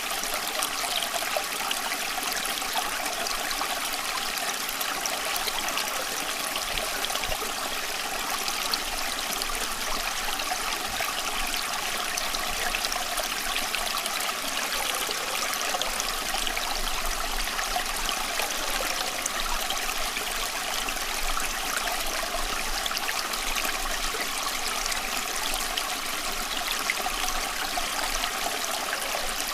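Running water flowing steadily, an even trickling and babbling that does not change.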